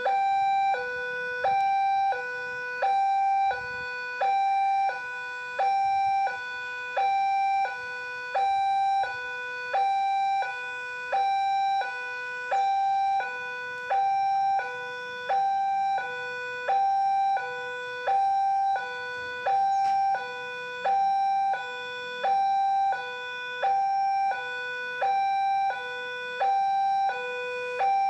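Electronic warning alarm at a railway level crossing, sounding a steady two-tone signal: a higher tone and a lower tone alternate about every two-thirds of a second, the higher one louder, warning that a train is approaching.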